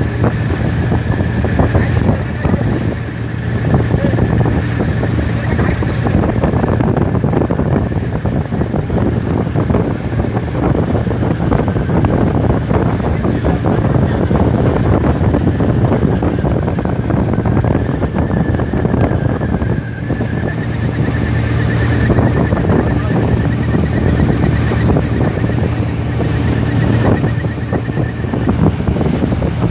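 Motorboat engine running steadily at a constant pitch, the tow boat for the parasail.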